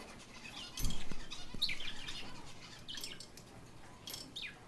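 Pet birds chirping in short, high calls, with a low thump about a second in.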